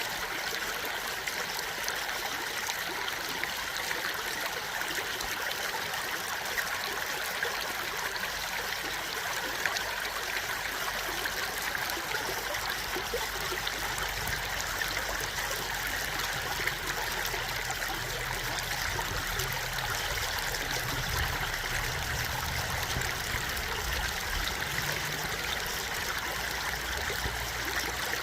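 Stream water flowing and trickling steadily in an even, unbroken rush.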